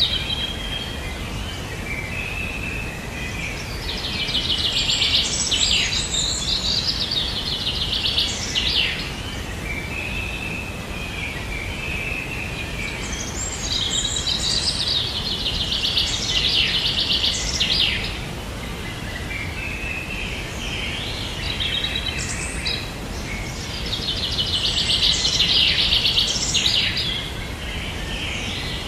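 Songbird singing: three long bouts of rapid, high trilling notes about ten seconds apart, with softer chirps between them, over a steady background hiss.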